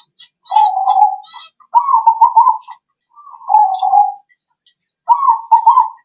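Zebra dove (perkutut) cooing: four phrases of rolling coo notes, each about a second long, with short pauses between them. Short high chirps from another small bird come in between, mostly in the first half.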